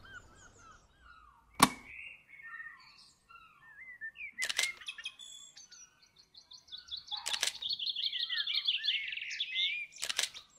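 Songbirds chirping and singing, with a long trilled song phrase in the second half. Four sharp clicks cut through, the loudest about one and a half seconds in.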